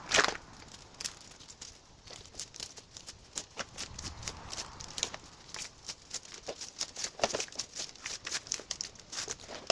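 Rummaging through a box of salvaged wiring harnesses: wires and plastic connectors rustling and clicking against each other in an irregular stream, with one louder knock right at the start.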